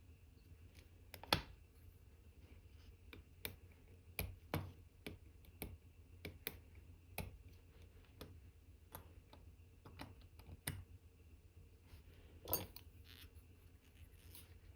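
Irregular light metallic clicks and taps of watchmaker's tweezers and tools handling small parts of a watch movement during reassembly, with a steady low hum underneath.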